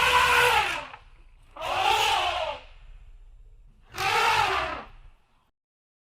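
Elephant trumpeting: three loud, brassy calls of about a second each, rising then falling in pitch, over a low rumble.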